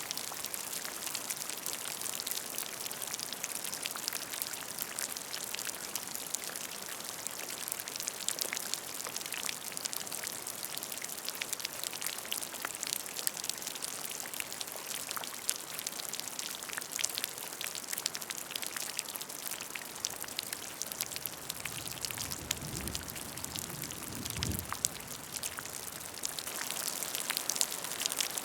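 Rain falling on a puddle of water: a dense, steady patter of individual drops splashing. A brief soft low rumble comes and goes about three-quarters of the way through.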